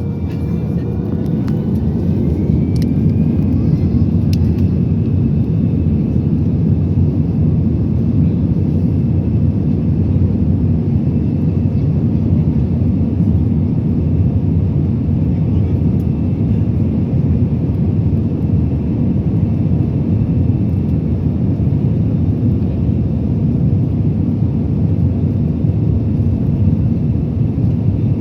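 Airbus A320 cabin noise during the takeoff climb: the CFM56 jet engines and rushing air make a loud, steady, deep roar. A faint whine rises in pitch during the first few seconds.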